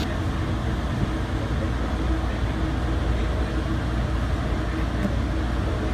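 Steady low rumble of trains moving past and under way, with no distinct horn or bell.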